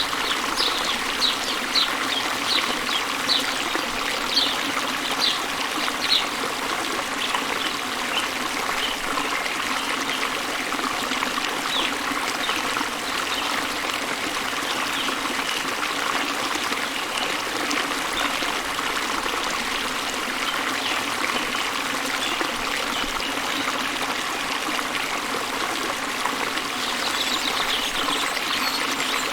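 Small waterfall spilling into a river, a steady rush of flowing water. A bird chirps over it, short calls at about two a second for the first few seconds, then fainter, with a few more near the end.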